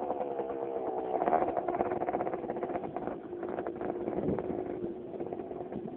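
Suzuki DS80 dirt bike's small two-stroke single-cylinder engine running as it is ridden, its pitch rising and falling a little with the throttle.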